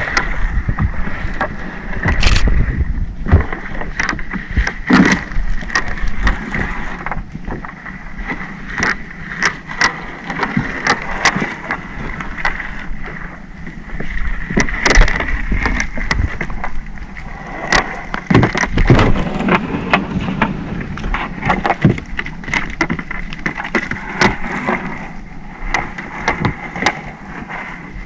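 Small fishing boat at sea: a steady engine hum with a thin high whine, overlaid by frequent knocks and clatter on deck as crab gill nets are worked aboard.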